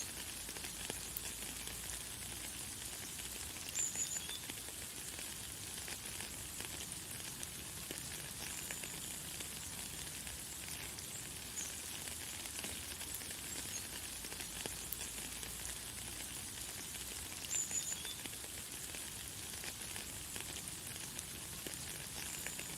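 Light, fine rain falling with a steady, crackly high hiss. A bird calls over it in short high chirps, loudest about four seconds in and again around eighteen seconds, with a few fainter ones between.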